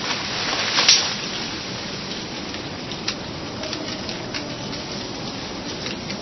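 Rain falling steadily, a constant hiss with single drops striking close by; a loud drop hits about a second in and another about three seconds in.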